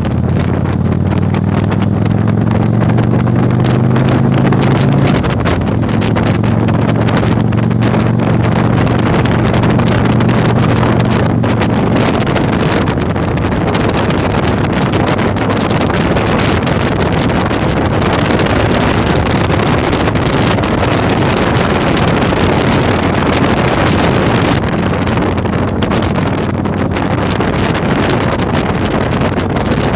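Yamaha Virago 1100 V-twin motorcycle engine running under way with heavy wind noise on the microphone. The engine note is clear and rising for the first few seconds, then is buried under the rush of wind.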